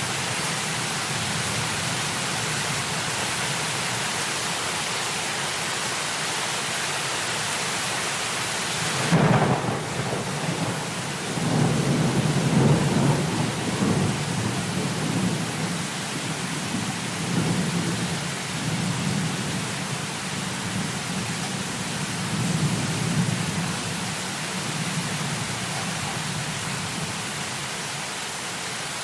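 Steady heavy rain, then a sudden thunderclap about nine seconds in, followed by rolling thunder that rumbles on and off.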